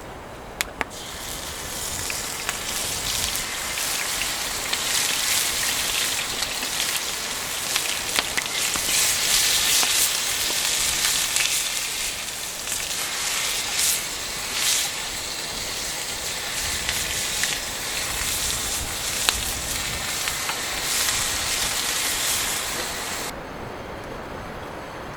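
Food sizzling in a pan over a campfire, a steady hiss with scattered crackles and pops. The sizzle cuts off suddenly near the end.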